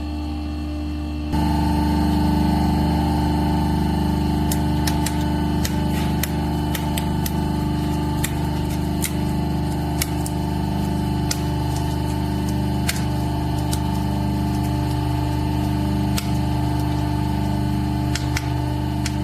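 A machine running with a steady hum, which steps up louder a little over a second in, with scattered sharp clicks over it.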